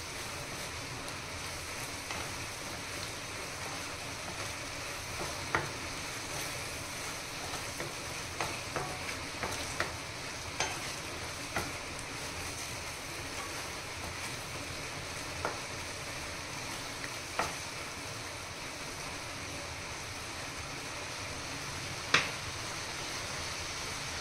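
Carrot halwa sizzling gently in ghee in a steel pan, stirred with a wooden spatula that scrapes and knocks against the pan now and then, with one sharper knock near the end. The steady sizzle is the halwa drying out on low flame and releasing its ghee.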